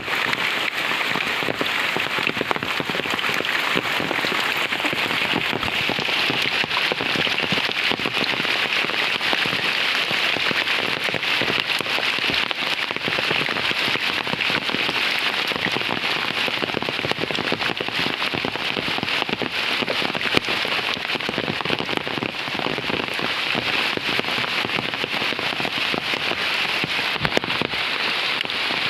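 Heavy monsoon rain falling steadily, a dense patter of drops striking surfaces, with a couple of sharper single taps late on.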